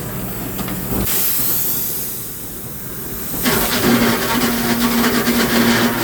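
Sawmill machinery running. A sharp hiss sets in about a second in and fades away. About three and a half seconds in, a louder clattering machine noise takes over, with a steady hum under it.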